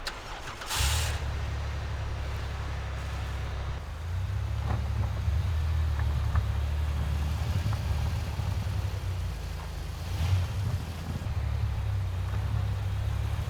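A van's engine starting up about a second in on a cold, snowy morning, then idling steadily with a low hum.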